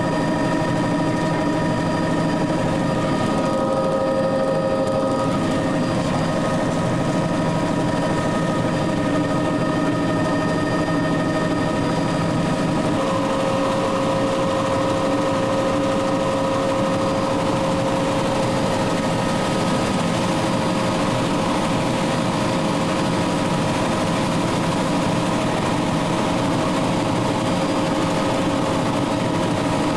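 Helicopter engine running steadily: a constant drone carrying several steady whining tones that shift slightly about 13 seconds in.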